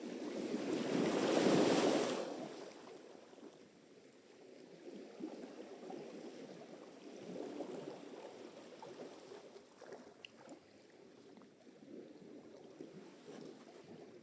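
Sea surf: a wave breaks and washes in about a second and a half in, the loudest moment, then fades into softer washes of water with smaller swells later on.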